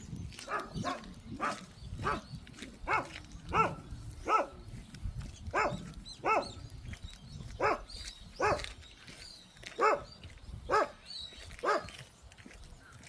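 A dog barking repeatedly, about one short bark a second and now and then two in quick succession.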